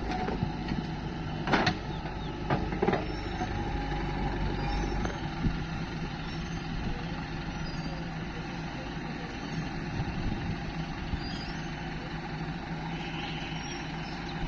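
A heavy diesel engine running steadily, with a few sharp metallic clanks between about one and a half and three seconds in.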